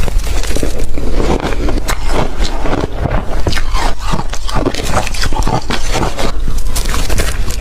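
Close-up crunching of ice being bitten and chewed: many sharp, irregular crunches in quick succession.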